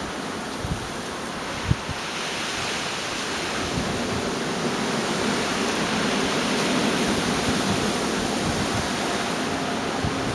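Gale-force storm wind blowing in a strong, steady rush, which swells into a gust about two seconds in and holds. A couple of low thumps of wind buffeting the microphone come in the first two seconds.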